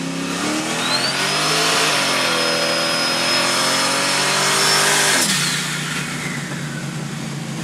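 Turbocharged 4.8-litre V8 in a 1998 Trans Am revving up hard with a high, steady whine over it. The revs dip briefly about two seconds in, hold high, then drop sharply back to idle about five seconds in as the whine fades.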